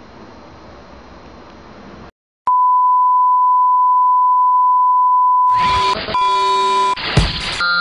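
A loud electronic beep: one steady pure tone lasting about three seconds, coming in after faint hiss and a moment of silence. It breaks off briefly and sounds again more shortly over a lower tone, then music starts near the end.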